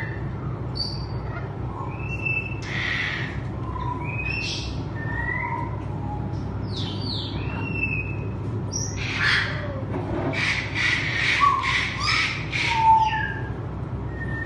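Several aviary parrots calling: short whistled chirps and sliding notes mixed with harsh squawks, and a quick run of squawks in the second half. A steady low hum runs underneath.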